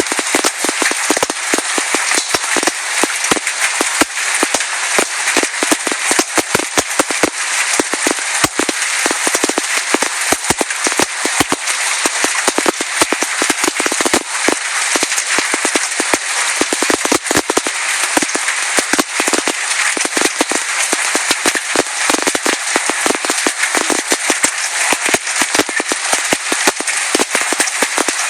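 Hailstones pelting down in a dense, unbroken clatter of sharp impacts over the steady hiss of a downpour.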